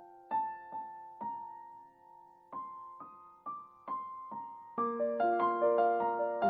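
Background music of solo piano: slow single notes that ring out, building into fuller, louder chords near the end.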